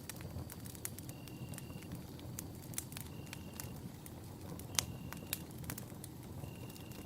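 Wood campfire burning with a low steady rumble and irregular sharp crackles and pops; the loudest pop comes about five seconds in. A short high chirp repeats about every second and a half throughout.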